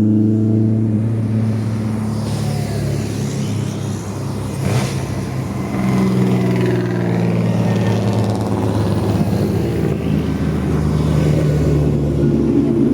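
Hillclimb race car engine revving hard under acceleration, its pitch climbing and dropping several times through gear changes, with a sharp crack a little under five seconds in.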